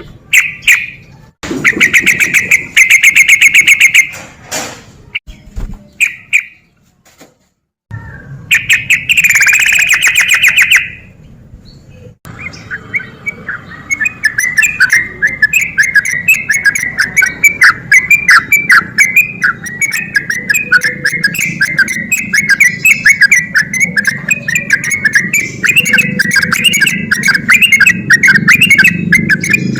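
Yellow-vented bulbul (trucuk) singing in rapid runs of repeated notes. For the first twelve seconds the song comes in short bursts with silent gaps, then it runs on as an unbroken quick chatter to the end.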